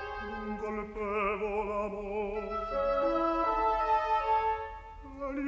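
Opera orchestra playing slow, held chords that move step by step, with a wavering, vibrato-laden note about a second in.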